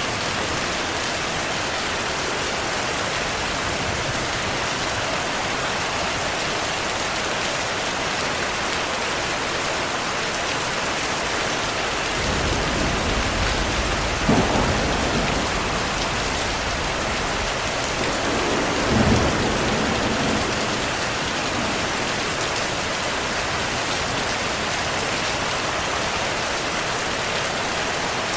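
Steady heavy rain falling, with a roll of thunder rumbling in about twelve seconds in and peaking in two louder cracks some five seconds apart before it dies away.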